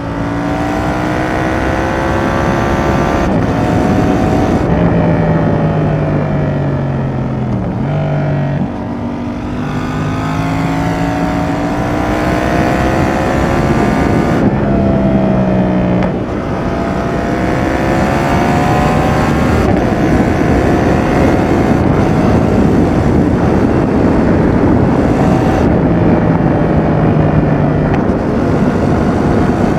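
Yamaha XSR700's 689 cc CP2 parallel-twin running through an aftermarket Roadsitalia Double Fire exhaust under way: the engine note climbs with the revs, drops sharply at each of several gear changes, and climbs again, over a steady rush of wind.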